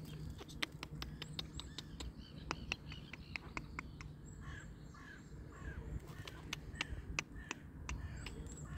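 Birds calling, with a run of short repeated calls in the middle and some high calls near the start and end. Scattered sharp clicks and a faint steady low hum run underneath.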